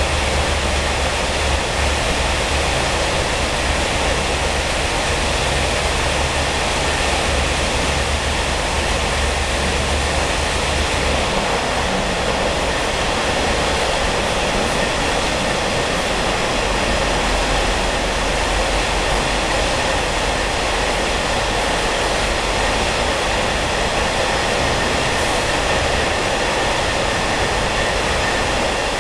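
Inside a Taiwan Railway SPK32700-series ordinary passenger coach while the train runs: a loud, steady rumble of wheels and running noise with a low hum, unbroken throughout.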